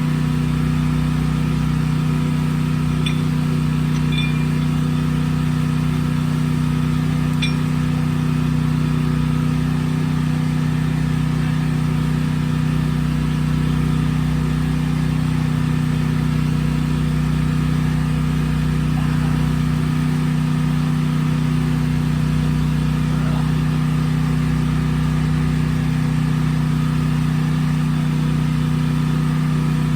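A steady, unchanging engine or motor drone with a constant low hum, and a few faint clicks between about three and eight seconds in.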